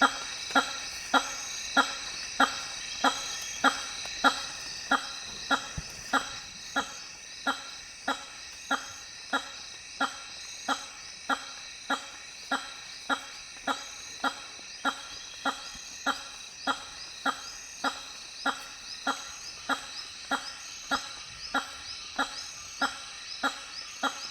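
Hammer-headed fruit bat giving its repeated honking call, short pitched honks about three every two seconds at a steady pace, slowly getting quieter. A steady high trilling runs behind them.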